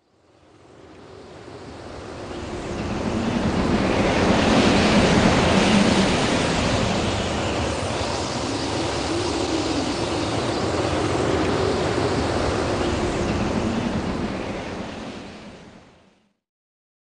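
A steady rushing noise, like a wind or surf ambience. It fades in over about four seconds, swells slightly, and fades out shortly before the end.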